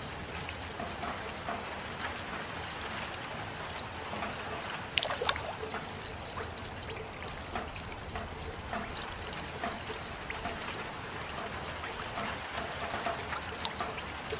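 Steady rain falling, with scattered drips and trickling water and a brief louder spatter of drops about five seconds in.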